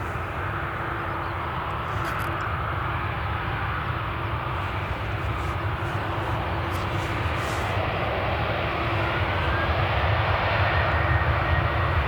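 Airbus A350's Rolls-Royce Trent XWB jet engines rushing steadily as the airliner slows on its landing roll, growing gradually louder, with a faint rising whine coming in near the end.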